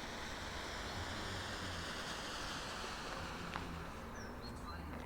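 Smoke grenade hissing steadily as it burns down, thinning out near the end as the charge nears burnout. A faint click comes about three and a half seconds in.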